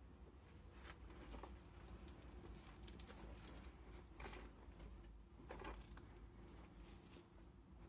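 Paper pages of a handmade junk journal being turned and handled, making soft rustles and a string of short crinkles.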